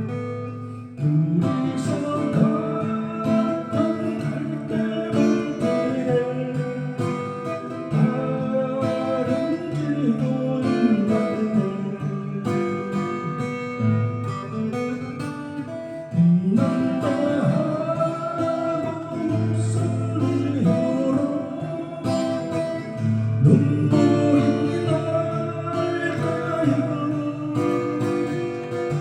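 Acoustic guitar playing a slow melody over low bass notes, with some picked strumming.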